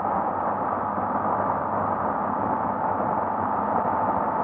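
Steady wind rush and engine noise from a Honda XRE 300 single-cylinder motorcycle being ridden at a constant pace. A faint, steady whine sits in the noise and grows a little clearer about halfway through.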